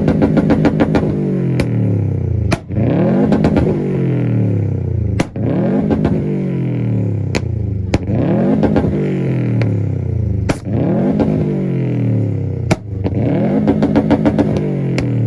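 Subaru STI's turbocharged flat-four boxer engine revved repeatedly against its two-step launch limiter: about six rev cycles, each climbing quickly, crackling on the limiter and then falling away, with sharp exhaust pops and bangs.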